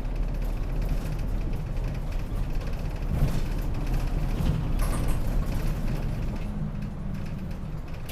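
City route bus heard from inside the cabin, its engine running low and steady near idle.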